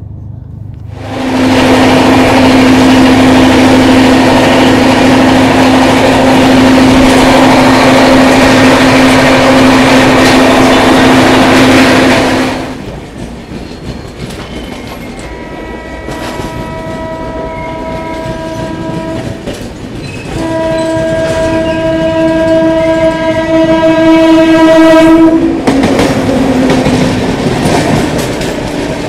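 Loud rushing and rattling of trains passing at speed, heard from the open door of a fast-running coach, for about eleven seconds. Then two long locomotive horn blasts of about five seconds each sound as a passenger train passes on the next track, with wheel clatter underneath.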